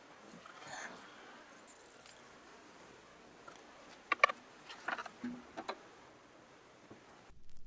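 Quiet room tone with a few brief clicks and small rattles about four to six seconds in, like something being handled.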